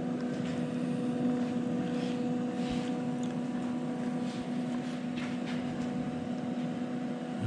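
Welder's steady electrical hum with a constant hiss under it, with no clear arc crackle.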